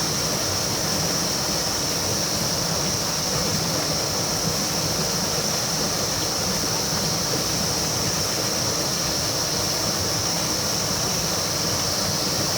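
Steady rushing of river water, with a steady high-pitched hiss over it.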